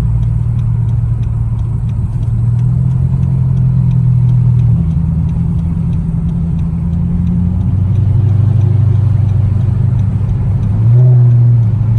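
Car engine and road noise heard from inside a moving car: a loud, steady low drone that shifts in pitch a few times.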